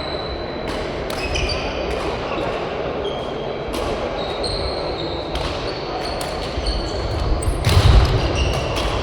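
Badminton rally in a sports hall: sharp racket hits on the shuttlecock a second or so apart, short high squeaks of court shoes on the floor, and heavier footfalls near the end, over the hall's echoing background.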